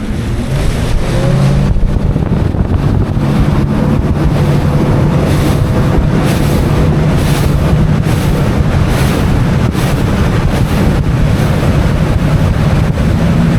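Boat's outboard motor running under way, picking up speed over the first couple of seconds and then holding steady, with wind on the microphone.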